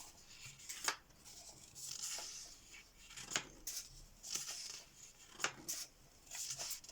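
Pages of a paperback colouring book being turned and smoothed down: soft rustling swishes with a few sharp, crisp paper snaps, one about a second in, one midway and one near the end.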